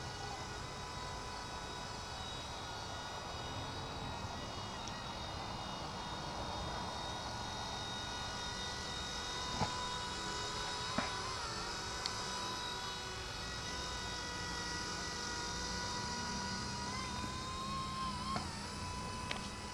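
Small electric RC helicopter (RC ERA EC-135) in flight, its motor and rotors giving a steady high whine. The pitch briefly wavers and dips near the end, and a few faint clicks sound in the middle and near the end.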